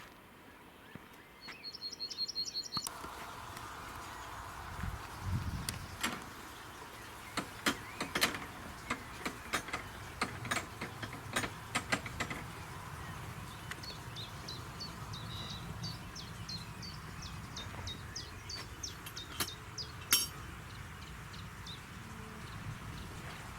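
Small birds singing: a quick high trill early on, then from about halfway a long run of short repeated chirps. Sharp clicks sound between about six and twelve seconds in, with one more near the end, over a steady outdoor hiss.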